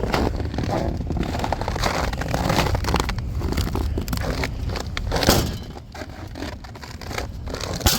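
Scraping and crackling handling noises over a steady low rumble, with the loudest scrape about five seconds in, after which the rumble drops.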